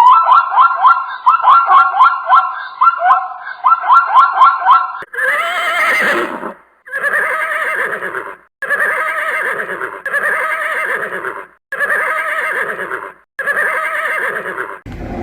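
Animal calls: a fast quavering call for about five seconds, then, after a sudden change, six long calls of about a second each with short breaks between them.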